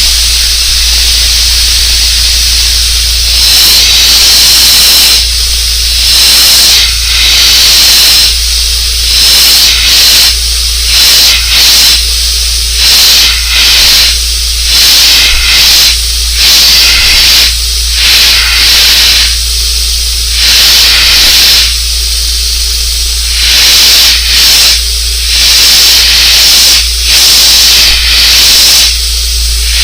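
Airbrush spraying paint in many short on-off bursts of hiss, over a low steady hum.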